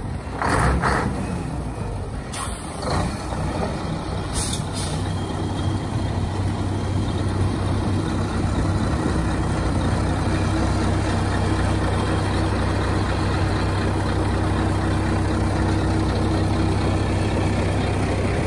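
Scania 450 truck's diesel engine idling steadily, with a few short air hisses from the air brake system in the first few seconds.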